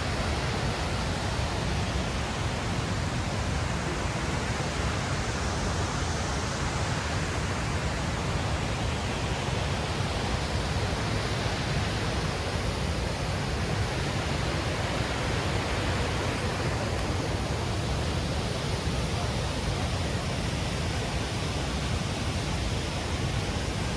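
Steady rush of a powerful waterfall running high with snowmelt, an unbroken noise with no change in level.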